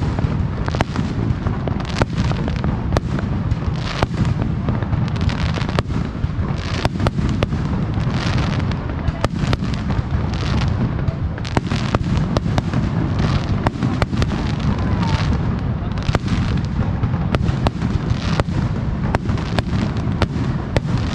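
Aerial fireworks shells bursting in quick succession: sharp bangs, roughly one or two a second, over a continuous low rumble of booms.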